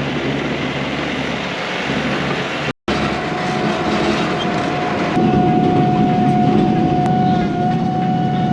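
Kioti NS6010 compact tractor's diesel engine running steadily with a dense mechanical drone. After a brief break about three seconds in, a steady high whine sits over the engine noise.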